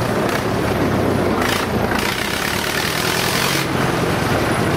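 Old tractor engine running steadily with a low drone.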